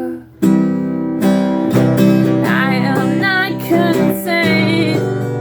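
Acoustic guitar strumming chords, with a brief break right at the start before the strumming comes back. A voice holds a wavering sung note in the middle.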